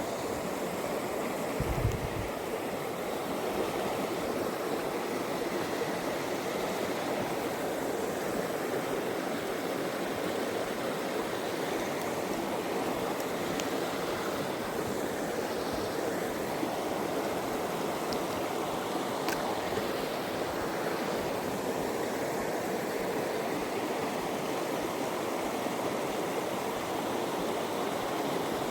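Steady rush of a brook tumbling over a small waterfall into a pool, with a brief low bump about two seconds in.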